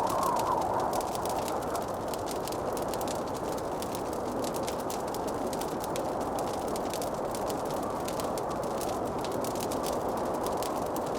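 Wood fire crackling in a fireplace: many small, rapid, irregular snaps and pops over a steady soft rushing noise.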